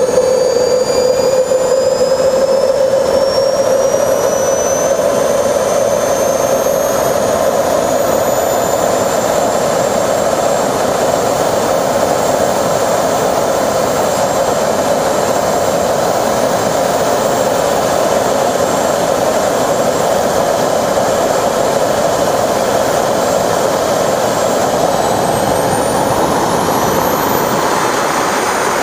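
Small jet turbine engine on a wheelchair running hard, a steady loud rush with a high whine that climbs in pitch over the first several seconds; near the end another thin whine sweeps up.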